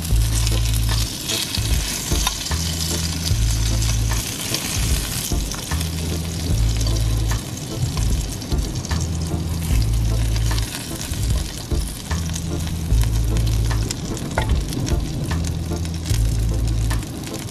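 Fish fingers sizzling as they fry in butter in a non-stick frying pan, with a fork clicking against the pan as they are turned. A repeating low bass line of background music runs underneath.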